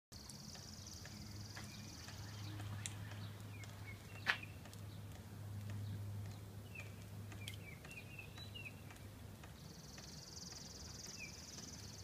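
Songbirds calling after rain: one bird gives a high, even trill of about two and a half seconds twice, near the start and near the end, with short chirps from other birds in between. A single sharp click a little past four seconds, and a low steady hum underneath.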